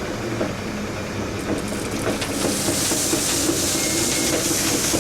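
Heavy diesel engine running steadily, with a loud rushing hiss setting in about two seconds in and holding.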